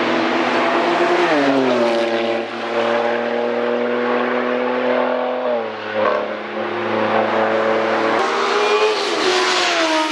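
Road vehicles passing at speed on a race circuit, their engines running hard and loud. The engine note drops in pitch about three times as each one goes by.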